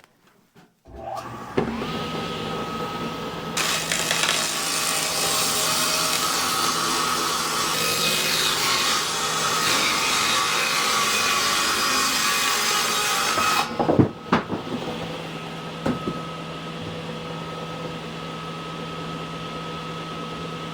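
Table saw with a heavy 5-horsepower induction motor starting about a second in and spinning up to a steady hum. A few seconds later the blade cuts through a board for about ten seconds, then there is a knock and the saw runs on freely.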